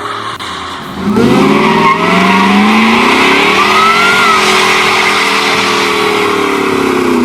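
Ford Lightning pickup's V8 doing a burnout: about a second in, the engine revs up hard and is held high while the rear tyres spin and squeal, and the revs start to fall near the end.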